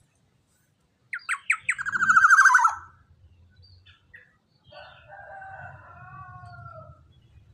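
Young black-naped oriole calling: a quick run of about five sharp notes that slides into a loud, harsh, falling rattle, then a softer, drawn-out nasal call a couple of seconds later.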